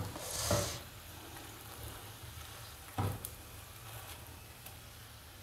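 Potato-and-breadcrumb-coated scotch eggs sizzling in hot oil in a frying pan. A brief louder burst of sizzling comes about half a second in, and a single sharp knock, the spatula against the pan, about three seconds in.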